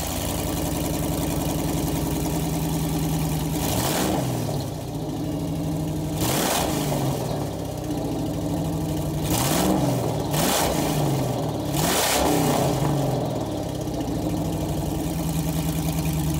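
Car engine idling steadily, blipped about five times with brief rises in pitch and exhaust noise.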